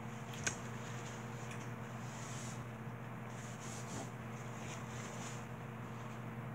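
Faint chewing of a mouthful of seafood, with one sharp click about half a second in, over a steady low hum.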